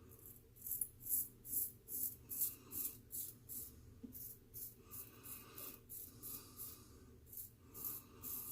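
Geo Wostenholm & Sons straight razor scraping through several days of stubble in a run of short, even strokes, about two or three a second. The edge is cutting but not smoothly, which the shaver puts down to a hone that has left it not sharp enough for his beard.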